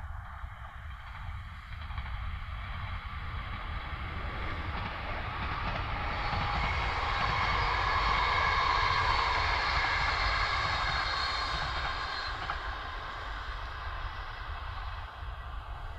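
Double-deck electric passenger train passing on the line, its rolling rail noise swelling to a peak about halfway through and fading as it moves away.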